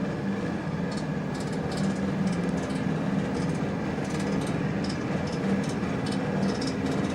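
Hand-sanding of a forge hammer's steel lower saddle: short, irregular scraping strokes over a steady low drone.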